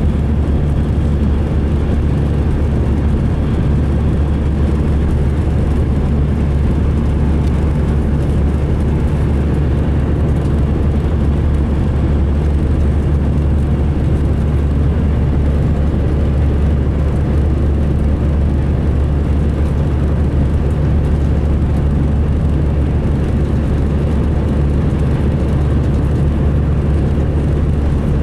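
MCI D4500 diesel coach engine running with a steady low drone and no change in pitch, a coach whose running and idling the rider describes as sounding rough.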